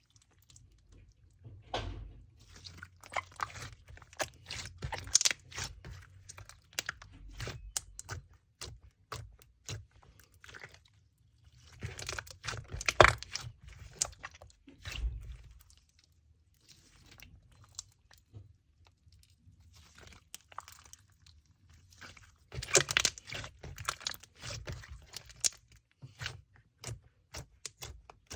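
Slime being squished and worked by hand, giving three bursts of dense clicking and crackling with quieter stretches in between.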